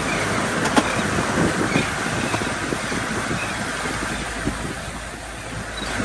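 Wind buffeting the microphone over the rush of a boat on choppy water, with scattered small knocks. It eases slightly near the end.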